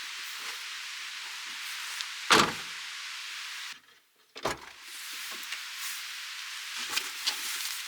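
Steady rush of a mountain stream, with two loud thumps about two seconds apart and a few lighter knocks near the end.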